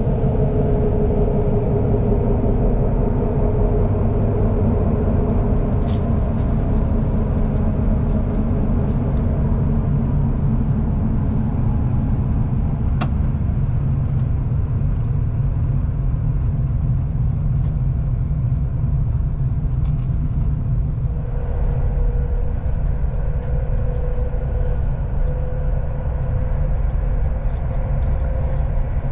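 Inside a moving loco-hauled passenger coach: the steady low rumble of wheels running on the rails. A faint tone slowly rises in pitch over the last third, and a single sharp click comes about halfway through.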